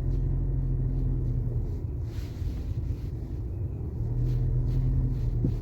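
Inside the cabin of a DS7 Crossback driving over a rough road: steady low engine and road rumble, with a short knock near the end. The owner traces the knock to a worn front shock absorber top mount.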